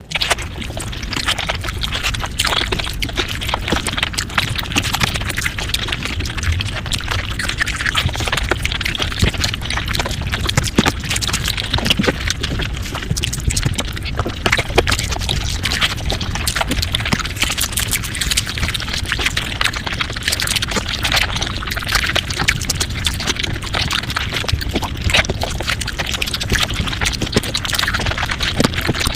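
Mukbang eating sounds sped up five times: a dense, unbroken stream of rapid chewing and mouth clicks.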